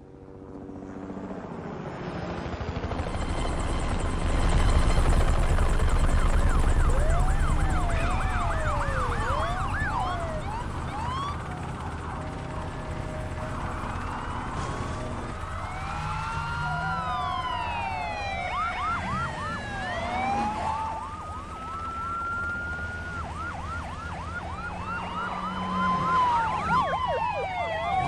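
A car engine building up to a loud, heavy run, then several police car sirens wailing and yelping over each other from about eight seconds in, overlapping and shifting in pitch.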